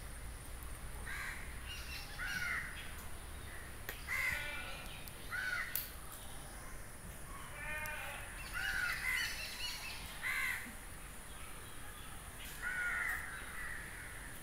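Birds calling with short, harsh calls, about ten of them at uneven intervals, some close together in pairs, over a faint steady hiss.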